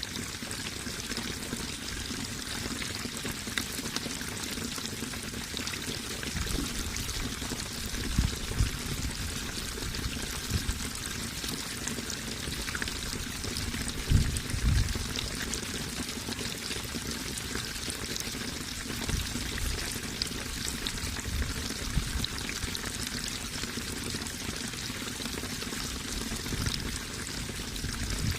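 Steady rush of running water, continuous and unchanging, with a few louder low thumps about eight and fourteen seconds in.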